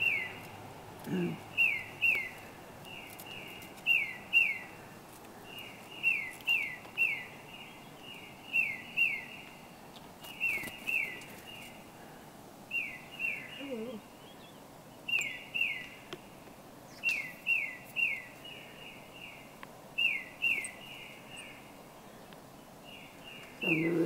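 A small songbird singing: clear whistled notes that slide down in pitch, given in quick groups of two to four and repeated every second or two.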